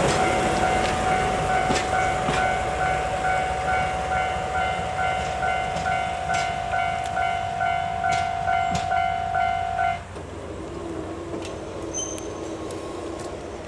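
A DE10 diesel locomotive and its three coaches passing, with sharp clacks of the wheels over rail joints. Under them a steady tone sounds along with a fast, evenly repeating ringing. Both tones cut off suddenly about ten seconds in, leaving a quieter rumble.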